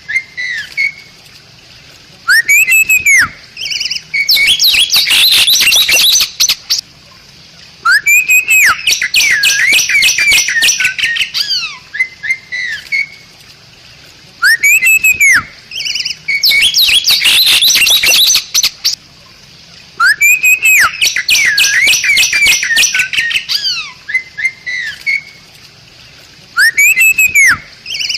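Bali myna singing: a phrase of loud arching whistles that runs into a dense, rapid, rasping chatter. The phrase repeats about every six seconds, with short quiet gaps between.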